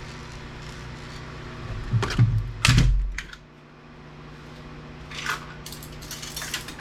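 Small plastic and metal scrap parts clattering as they are handled and tossed, with the loudest knocks about two to three seconds in and lighter clicks later on.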